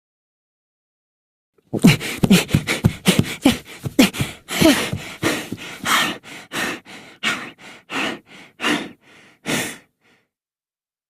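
A person's voice making a quick series of short breathy sounds, like gasps and puffs of breath, two or three a second. The first few fall in pitch and the later ones are mostly breath. It stops about ten seconds in.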